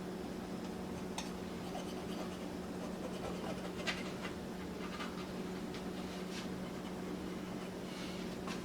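A few light scratches and taps scattered over a steady low hum.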